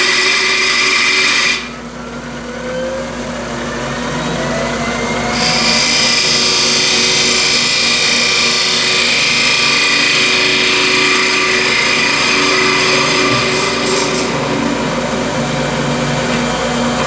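Wood lathe running while a turning tool cuts a spinning bubinga button. The cutting noise drops out briefly just under two seconds in, then builds again and is loud from about five seconds on.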